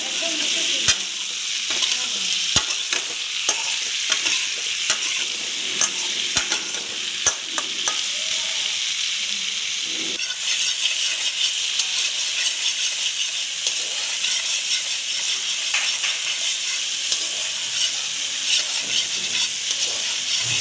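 Potato chunks frying in hot oil in an iron kadai, a steady sizzle throughout. For the first eight seconds or so a metal spatula knocks and scrapes against the pan as the potatoes are tossed, in sharp clicks about once a second; after that the sizzle carries on with only occasional clicks.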